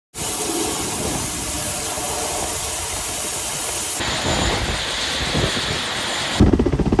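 Ka-52M attack helicopter noise: a loud, steady rushing hiss, then near the end a fast, even, low rotor thumping starts abruptly.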